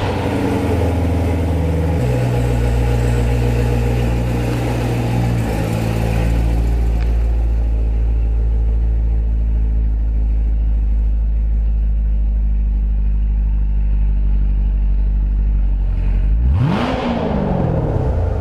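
Corvette V8 engine running as the car is driven at low speed, a steady low note that shifts in pitch a couple of times in the first few seconds, with a quick rev that rises and falls near the end.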